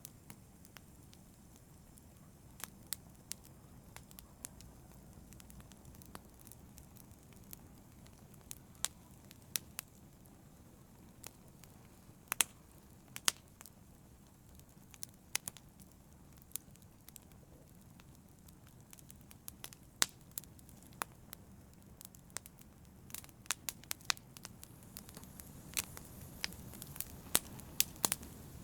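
Wood fire burning in a fireplace: a low steady rumble of flames with sharp, irregular crackles and pops, which come more often near the end.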